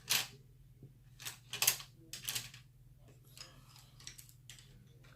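A makeup brush and eyeshadow palette being handled: a few short scratchy swishes and light taps, the loudest in the first couple of seconds and fainter ones after. A steady low hum runs underneath.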